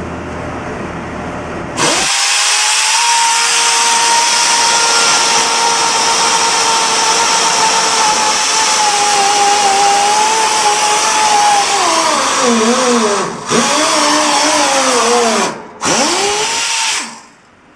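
A high-speed power tool running with a steady high whine and hiss. From about twelve seconds in its pitch sags and wavers, it cuts out briefly twice, and it stops near the end.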